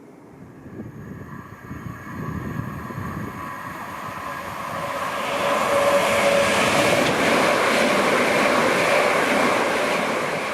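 Train passing through a station: its noise builds over several seconds into a loud steady rush with a whine, then starts to ease off near the end.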